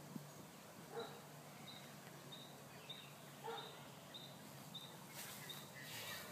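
Quiet outdoor ambience with a short, high chirp repeating evenly, a little faster than once a second. There are a couple of soft knocks, and a brief rustling hiss near the end.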